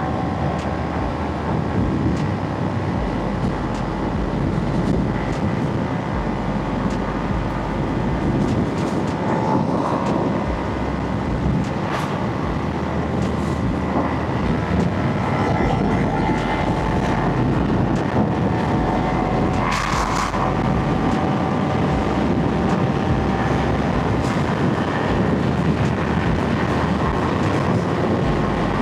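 Kawasaki Ninja 300's parallel-twin engine running under way, its pitch holding fairly steady with slight rises and falls, over a constant rush of noise.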